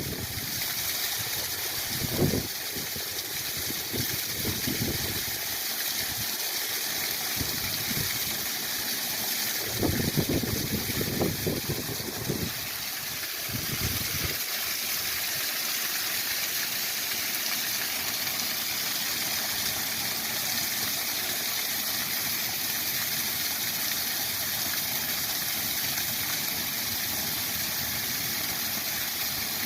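Spring waterfall rushing steadily. A few low buffeting bursts come in the first half, the loudest about ten seconds in.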